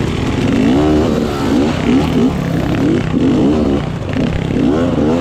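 Motorcycle engine revved in a quick series of short throttle blips, the pitch climbing and dropping back about every half second to second.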